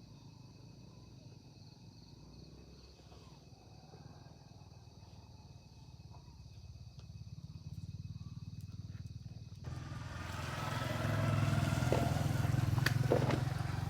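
A motor vehicle's engine running nearby, growing louder through the second half, with a few sharp clicks near the end.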